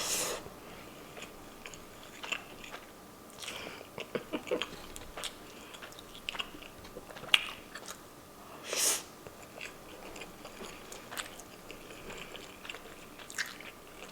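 Close-miked eating: chewing a mouthful of corned beef hash with potatoes and onions, with wet mouth clicks and small crunches. Two short hissing sounds stand out, one at the very start and one about nine seconds in.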